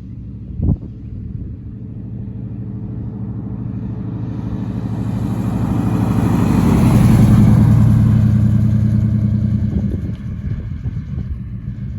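1967 Buick GS 400 Stage 1's V8 running at a steady pitch as the car passes. It grows louder to a peak about seven seconds in, then fades. A short knock comes just under a second in.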